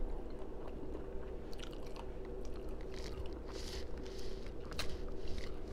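Close-miked chewing of crispy fried tilapia: soft crunches and wet mouth smacks and clicks, irregular and scattered.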